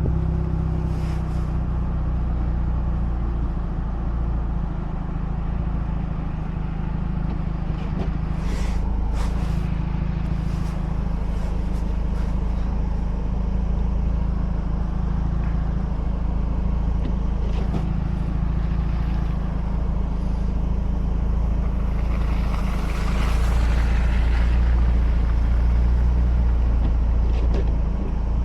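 Mazda RX-8's rotary engine running as the car drives at a steady pace, with a continuous low hum of engine and road noise. A few brief ticks come through early on, and the hiss of the tyres swells louder for several seconds near the end.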